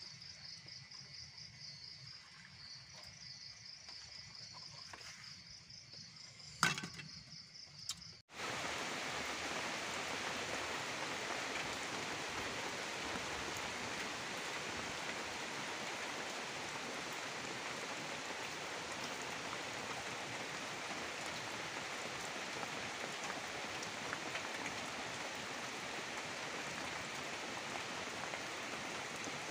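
Night insects chirping in a steady pulsing trill, with a sharp knock about seven seconds in. Then, after a sudden cut, steady heavy rain falling.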